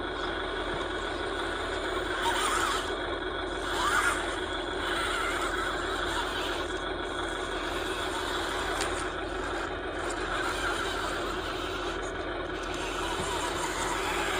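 RC model construction machinery running: a steady electric motor and gear whine, with brief squeals about two and four seconds in.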